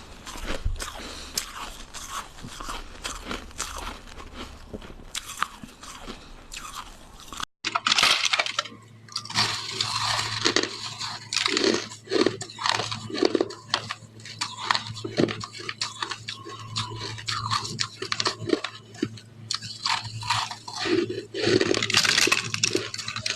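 Ice sticks being bitten and chewed close to the microphone: dense, irregular crisp crunching and crackling. About seven and a half seconds in the sound cuts out for a moment, then the crunching resumes over a steady low hum.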